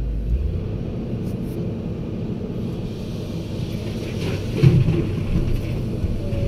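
Heavy diesel machinery running with a steady low rumble, with a brief louder clank or knock about four and a half seconds in.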